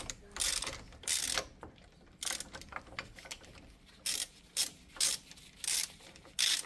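Ratchet wrench clicking in repeated short strokes, about two a second with a brief pause after a second or so, as it turns the screw of a hub bearing removal tool to press a seized steel wheel bearing out of an aluminum steering knuckle.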